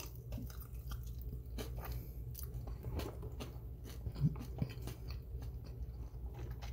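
A person biting meat off a honey barbecue chicken wing and chewing it, close to the microphone: irregular small wet clicks and smacks of teeth and mouth. A low steady hum runs underneath.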